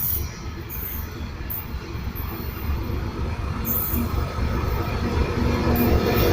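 ChME3 diesel shunting locomotive approaching with a mixed freight train: its six-cylinder diesel engine runs over a low rumble, growing steadily louder as it nears.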